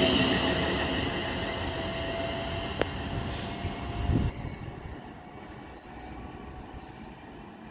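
Two coupled Class 350 electric multiple units running away from the listener, their sound fading over the first five seconds, with a high steady wheel squeal dying away. A short low thump about four seconds in.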